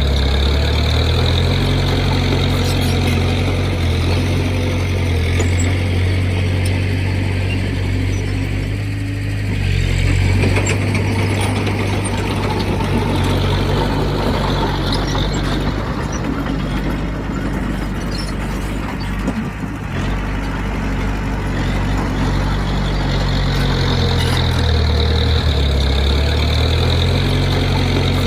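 Heavy diesel engine of earthmoving machinery running steadily, its pitch and load shifting a few times.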